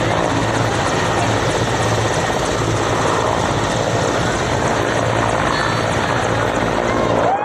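Helicopter running loud and steady at close range, its rotor and turbine noise filling the air as it lifts off.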